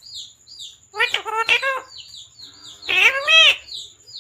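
Parrot calling: two loud two-syllable calls about two seconds apart, with quick high chirps repeating in between.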